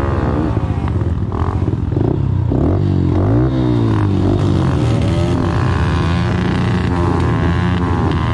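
Small four-stroke pit bike engine running under a rider, its pitch rising and falling as the throttle is worked, with a sharp dip and climb about three seconds in.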